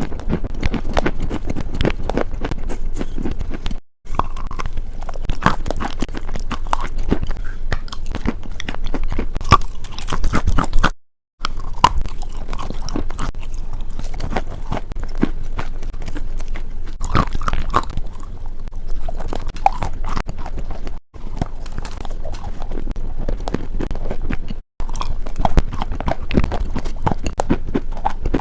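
Close-miked crunching: a continuous dense crackle of small sharp cracks and crunches. It stops dead for a moment four times where the recording is cut.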